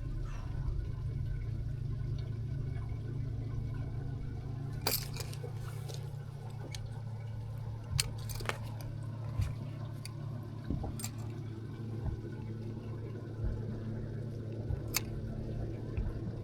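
Handling and weighing a just-caught bass in a boat: water sloshing and a few sharp knocks and clicks over a steady low hum.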